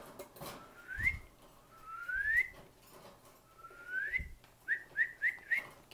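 Cockatiel whistling: three rising whistles spread over the first few seconds, then four short rising chirps in quick succession near the end.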